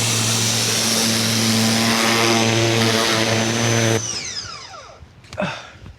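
Ryobi 2000 PSI electric pressure washer running with its spray going, a steady hum under the hiss of the water. About four seconds in the trigger is released: the spray stops and the motor winds down with a falling whine.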